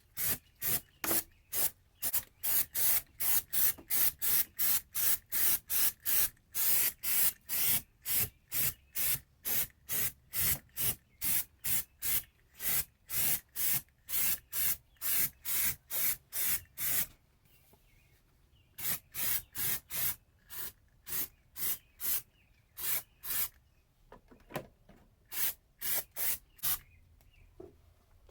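A spray bottle squirted over and over in short hissing bursts, about two to three a second, with a pause of a couple of seconds a little past the middle.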